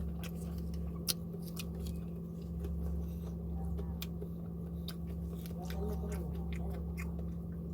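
A person chewing food close to the microphone: a run of short wet, crunchy clicks, over a steady low electrical hum.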